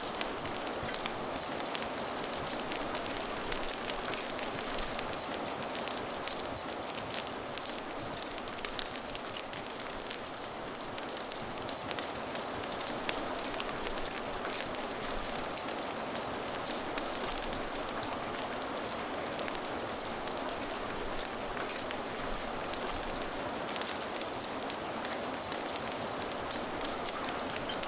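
Steady rain with a crackling fire: an even hiss of rainfall dotted with many small sharp crackles and pops throughout.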